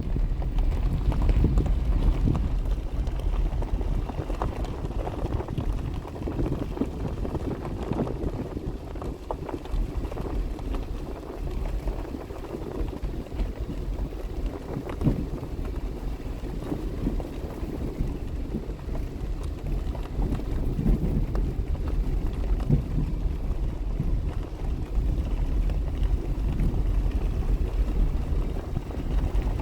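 Wind buffeting the microphone in a low, uneven rumble that swells and eases, over the running water of a spring.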